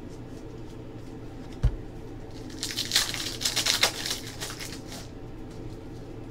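A single low knock, then about two and a half seconds of crinkling and rustling as trading-card pack wrappers are torn open and the cards handled, over a steady room hum.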